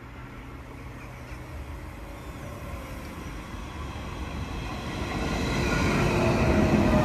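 DSB passenger train pulling in along the platform, its rumble growing steadily louder as it nears and passes, with a whining of wheels and running gear coming in over the second half.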